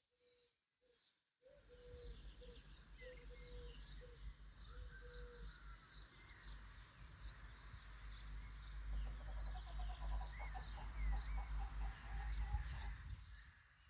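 Small birds chirping in a quick run of repeated high notes, with short lower calls repeating over the first few seconds. A low rumble starts about a second and a half in, is the loudest part, and fades out near the end.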